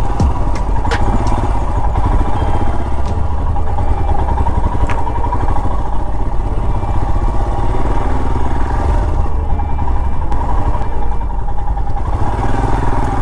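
Royal Enfield Himalayan's single-cylinder engine running steadily on the move, a dense low thrumming pulse.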